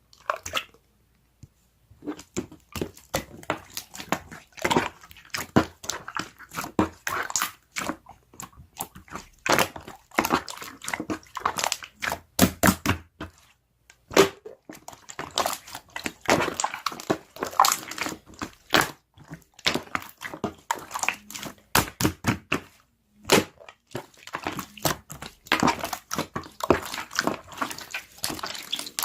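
Crunchy chewing of raw vegetables: many quick, irregular crunches with brief pauses.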